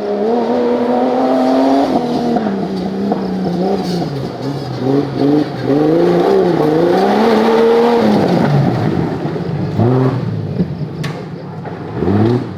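Off-road 4x4 engine revving under load, its pitch climbing and falling again and again, with two short sharp revs near the end.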